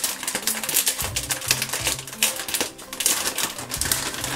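Plastic squishy packaging crinkling and crackling in a rapid run of small clicks as it is opened by hand, with background music underneath.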